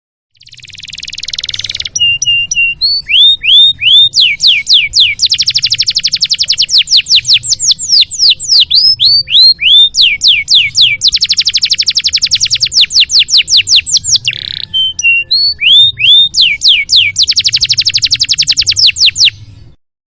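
Domestic canary singing a long, varied song: it opens with a harsh buzzy note, then alternates fast rolling trills with runs of repeated downward-sweeping whistled notes, and breaks off abruptly near the end.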